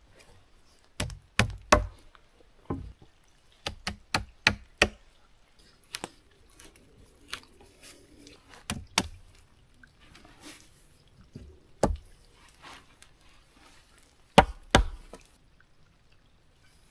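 Wood being struck by hand: an irregular series of sharp, hard knocks, some coming in quick pairs or runs, with the loudest blows near the start and near the end.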